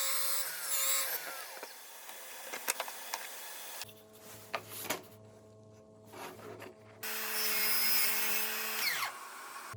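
Power tools working wood in short separate bursts: a loud running spell at the start and another from about seven seconds in, with falling whines, and sharp taps and knocks on wood in between.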